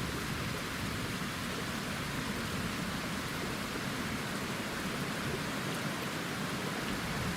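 River water rushing steadily over a shallow ford, an even hiss of running water.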